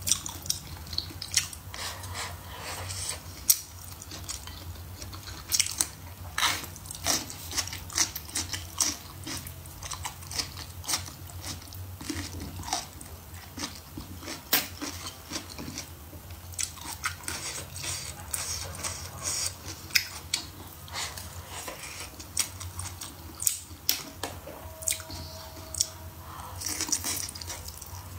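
A person chewing and biting braised pork trotter and green peppers, with irregular mouth clicks throughout and a steady low hum underneath.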